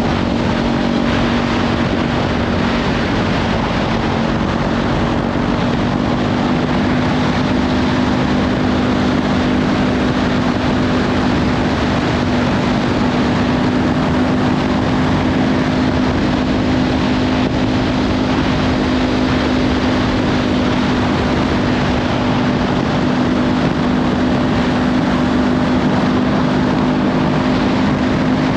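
Kawasaki Ninja 500's parallel-twin engine through a Leovince slip-on exhaust, running steadily at cruising speed with its pitch creeping slightly higher, under heavy wind noise on the microphone.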